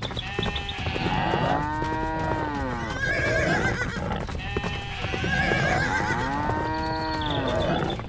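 Cartoon cows mooing: two long moos that rise and fall in pitch, the first about a second and a half in and the second about five seconds in.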